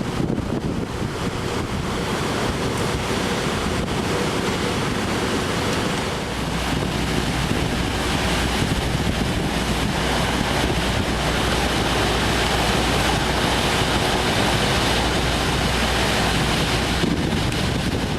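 Steady rushing noise with a low rumble underneath, the rumble thickening about six seconds in.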